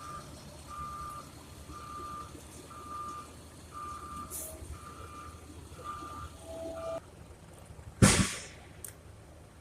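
A vehicle's reversing alarm beeping steadily, a little over one beep a second, over a low engine rumble. It stops abruptly about seven seconds in, and a second later a loud, short burst of hiss fades out quickly.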